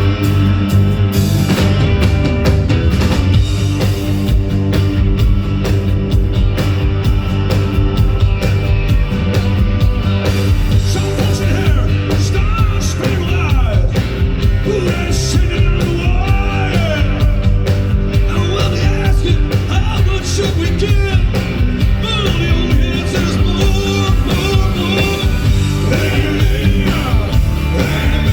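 Live rock band playing a loud rock-and-roll number, with a singer's vocal line over a steady drum beat.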